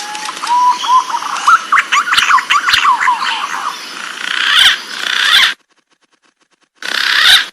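Green pigeon (punai) calling: a rambling series of whistled notes that glide up and down. The calls cut off abruptly a little past halfway, and a short burst returns near the end.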